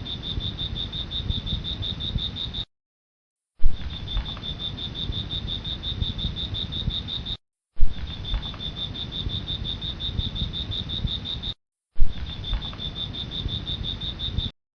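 An insect trilling in a fast steady pulse, about ten pulses a second, over a low rumble. The sound comes in separate stretches of three to four seconds, each opening with a loud click and cutting off abruptly into silence.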